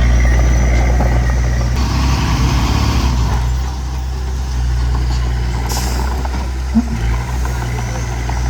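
Diesel engine of heavy earthmoving equipment running steadily. It gets rougher, with a burst of hiss, about two seconds in, and there is a single short knock near the end.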